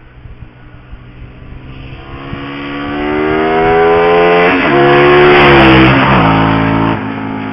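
Engine-driven vehicle passing close by at speed: its engine note swells to a peak, then drops in pitch as it goes past, and the level falls off sharply near the end.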